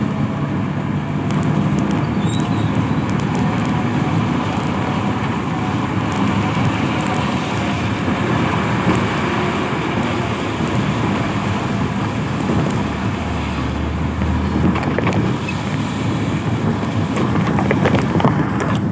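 Road traffic: vehicles running past, with a steady wash of engine and tyre noise and an engine hum in the first few seconds.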